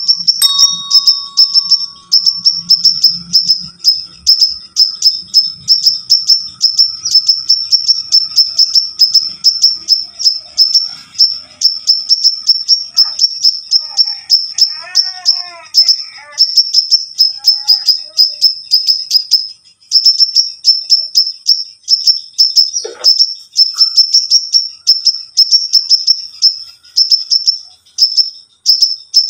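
Crimson sunbird singing steadily: a long, fast run of short, sharp, high-pitched notes, about two to three a second, pausing briefly about two-thirds of the way through.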